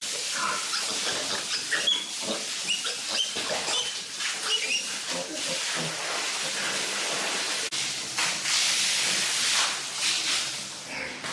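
Pigs giving short high squeals and grunts over a steady hissing noise that grows louder for a couple of seconds near the end.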